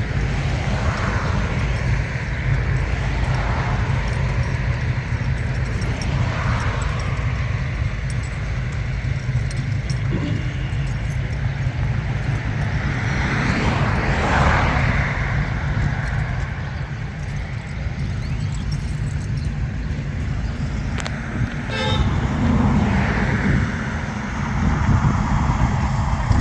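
Steady low engine rumble from cars, with the sound of a vehicle swelling past about halfway through.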